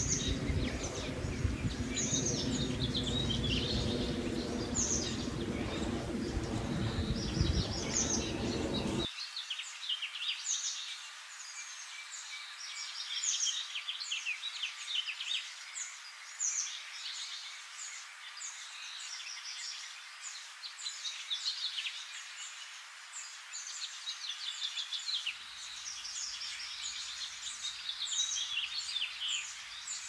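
Several small songbirds chirping and singing in quick, high-pitched phrases, one after another. A low noise underneath cuts off suddenly about nine seconds in.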